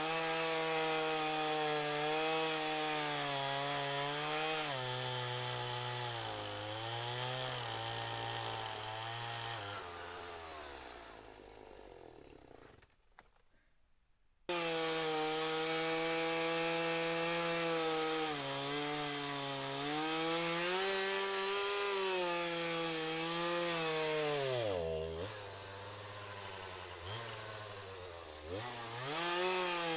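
Chainsaw running under load as it cuts into a fallen tree, its engine pitch wavering and sagging as the chain bites. About ten seconds in it fades almost to silence for a couple of seconds, then comes back at full level all at once. Near the end the pitch dips sharply twice and recovers.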